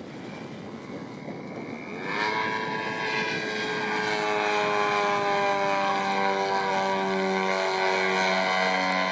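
3W 157 cc petrol engine of a large-scale model Piper, with its propeller, running rough and low at first. About two seconds in it jumps louder into a strong, steady propeller drone whose pitch sinks slowly.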